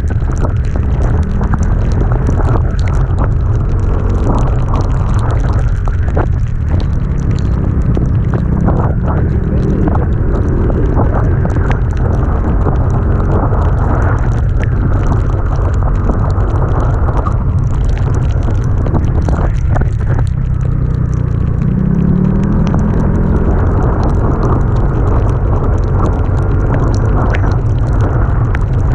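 A vehicle's engine runs under load on an uphill climb, buried in heavy wind noise on the microphone, with frequent short crackles. The engine note rises briefly about 22 seconds in.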